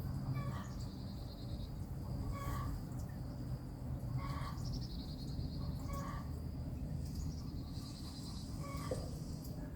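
Outdoor birds calling: one bird repeats a short call roughly every two seconds, while higher rapid trills come and go, over a steady low rumble.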